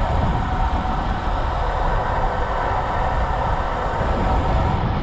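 Wind buffeting the action camera's microphone while riding a road bike at speed, with a steady hum of tyres and drivetrain underneath.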